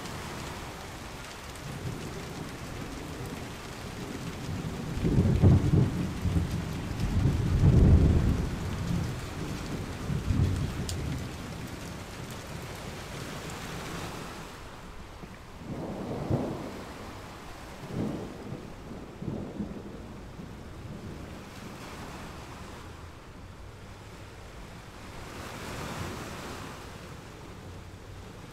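A steady rushing hiss with deep rumbles that swell and fade, loudest about five to eight seconds in and again, more briefly, around sixteen to nineteen seconds.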